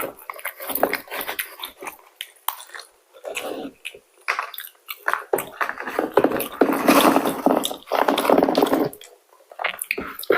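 Close-up eating: biting and chewing food, with many small crackles and a denser, louder stretch of chewing in the second half.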